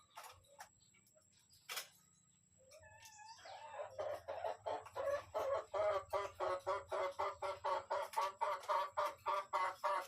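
A bird giving a rising call, then a fast run of short, harsh calls, about three a second, growing louder.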